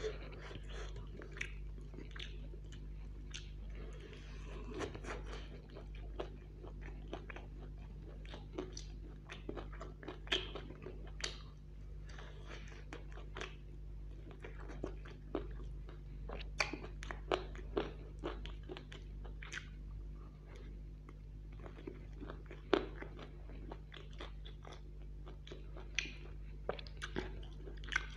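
Close-up eating sounds: a person chewing and crunching mouthfuls of chow mein noodles, with many sharp bites and smacks. A green chili is bitten near the end. A steady low hum sits underneath.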